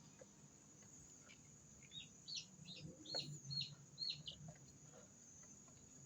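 Day-old chicks peeping in a brooder: a run of about seven short, high, falling peeps, starting about two seconds in.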